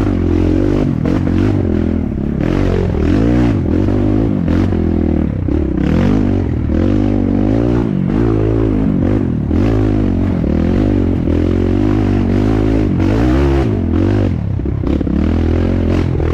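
Dirt bike engine being ridden on a trail, its revs rising and falling every second or so, with knocks and clatter from the bike over rough ground.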